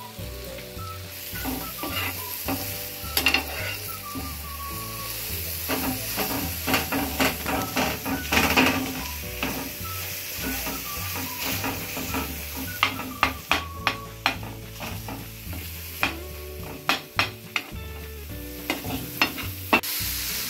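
Onion-tomato spice masala sizzling in oil on a tawa while it is stirred and scraped, with frequent sharp clicks of the utensil against the pan that come thickest in the second half. This is the masala being fried down (bhuna) before water is added.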